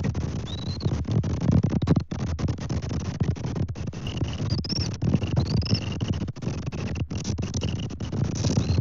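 Strong gusting wind buffeting an outdoor nest-cam microphone: a loud rumbling rush that swells and drops with each gust and cuts out briefly now and then. A few short, high chirps are heard over it.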